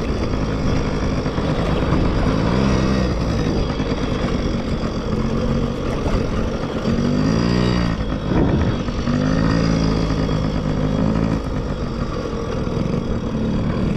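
Dirt bike engines revving on a motocross track, the engine note rising and falling several times as the bikes speed up and slow down.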